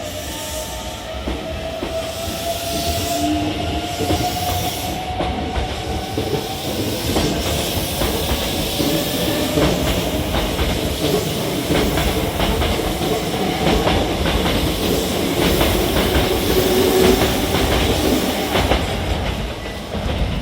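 Hankyu 8300 series electric train pulling out of the station. Its motors give a whine that climbs slowly in pitch as it picks up speed. Then the wheels clack over the rail joints faster and faster as the cars pass, and it gets louder until it falls away near the end.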